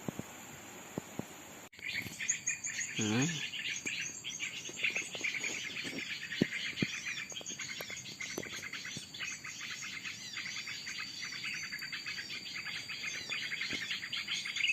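Many small birds chirping in a dense, rapid chorus that starts suddenly about two seconds in, over a steady high insect buzz. A single lower gliding note comes about a second later.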